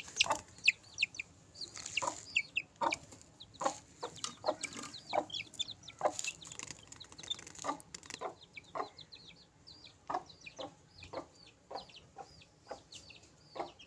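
Aseel chickens clucking, short clucks about every half second with high, brief chirps among them, growing fainter in the last few seconds.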